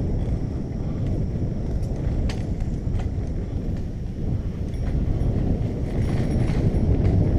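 Wind rumbling on the microphone of a camera riding along on a moving bicycle, with a few scattered light clicks and rattles.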